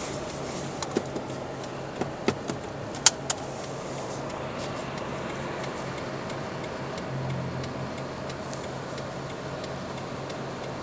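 Steady road and engine hum inside a moving car's cabin. Over roughly the first three and a half seconds there are about eight sharp, irregular clicks and ticks.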